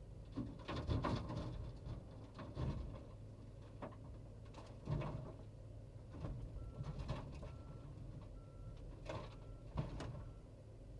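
A machine's engine running steadily while bark mulch is dumped into a pickup truck bed, with irregular heavy thuds and crunches. In the second half a reversing alarm beeps five times.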